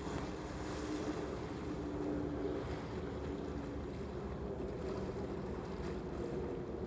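Waves lapping against a harbour waterfront, a steady wash of water with a faint low hum under it through the first half.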